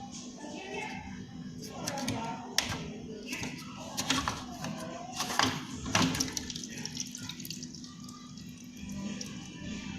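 Leftover wash water dripping and trickling from the drain filter opening at the bottom of a front-load washing machine, with several sharp plastic clicks and knocks a few seconds in, over background music.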